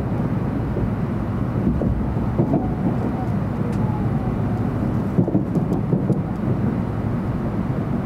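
JR Central 700 Series Shinkansen running on the track, heard from inside a passenger car: a steady low rumble with a few faint clicks and knocks.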